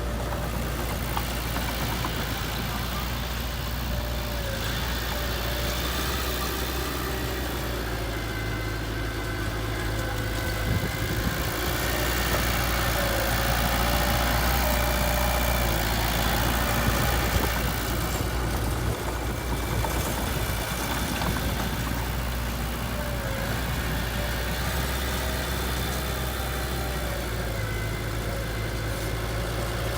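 Heavy earthmoving machine's diesel engine idling steadily, a little louder for several seconds in the middle.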